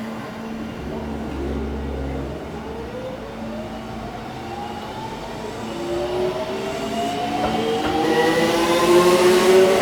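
Electric commuter train pulling out of the station, its traction motors whining in several tones that rise steadily in pitch as it accelerates, growing louder toward the end.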